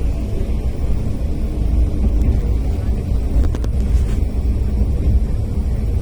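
Yamagata Railway diesel railcar running, heard from inside the car: a steady low rumble of engine and wheels, with a short cluster of clicks about three and a half seconds in.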